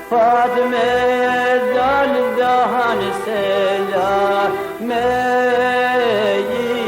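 An Albanian folk song: a melody of long held notes with wavering ornaments, sung over instrumental backing.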